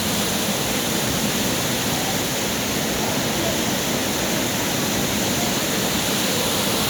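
Fast-flowing floodwater rushing steadily and loudly, with faint distant voices.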